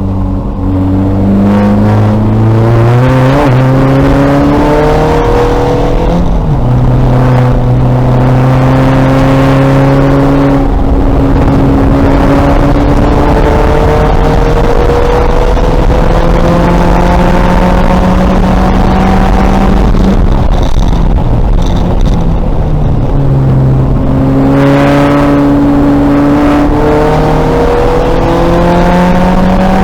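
A 2000 VW Golf race car's engine pulling hard on track, its pitch climbing steadily and then stepping down at each gear change. About two-thirds of the way through it eases off for a few seconds, then pulls up through the revs again.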